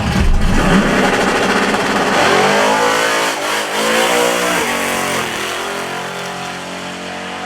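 Drag race car engine at full throttle on a run down the strip, its pitch climbing and dropping several times, then fading as the car pulls away.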